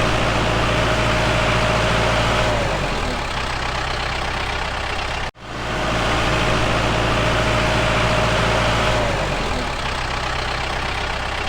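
An engine running steadily, with a whine that drops in pitch about three seconds in. After a brief cut about five seconds in, the same sound plays again.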